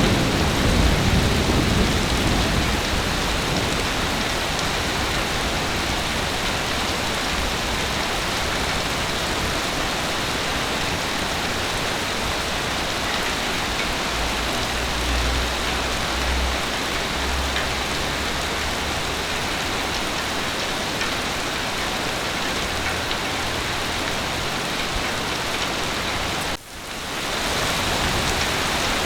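Heavy rain falling steadily, with a low rumble of thunder dying away at the start and another faint rumble about halfway through. The rain sound cuts out for a split second near the end.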